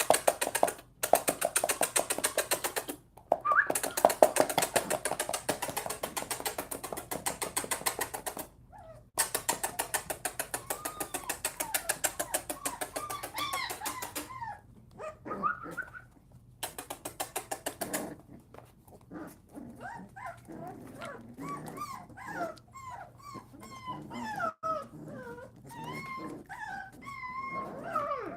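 Young puppies crying out: long stretches of loud, rapidly pulsing yelps broken by short pauses, then for the last third thinner high whimpers and whines that rise and fall.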